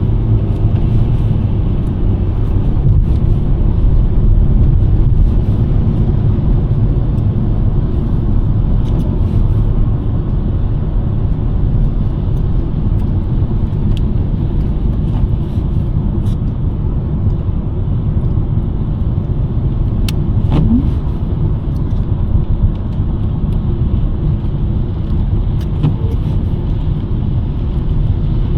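2023 Nissan Sentra driving at a steady pace: a constant low rumble of road and engine noise, with a few faint scattered clicks, one more distinct about two-thirds of the way through.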